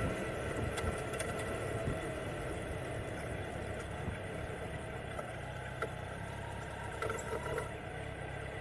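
Kawasaki Z900's inline-four engine running steadily at idle, with a few faint ticks near the end.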